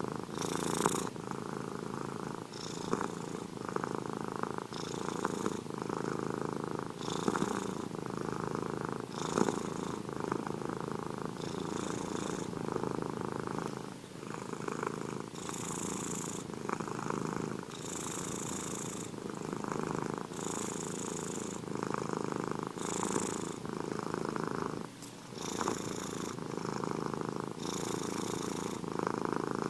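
Domestic cat purring steadily, in an even rhythm that swells with a breathy hiss about every two seconds as it breathes.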